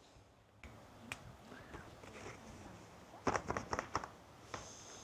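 Faint handling noises: scattered clicks and a short run of rustling crackles a little past halfway, with a thin high tone near the end.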